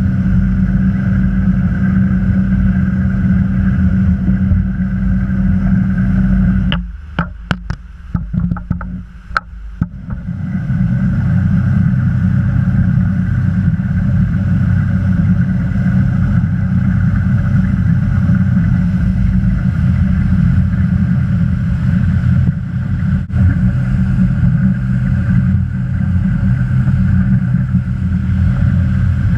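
Motorboat engine running steadily under way, with water and wind noise. About seven seconds in the engine sound drops away for about three seconds, with a few sharp clicks, then comes back.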